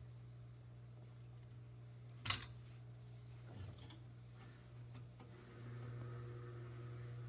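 Metal hand tools clinking against a miniature locomotive's steel chassis while the slipped drive sprocket is loosened. One sharp metallic clink comes about two seconds in, then a few lighter clicks, over a steady low hum.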